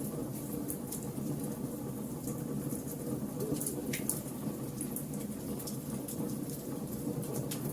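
Log fire crackling: a steady low rumble of flames with scattered sharp crackles and pops, one louder pop about four seconds in.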